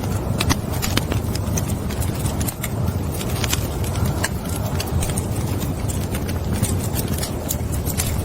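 Wood fire burning in a fireplace: a steady low rumble of flames with irregular sharp crackles and pops several times a second.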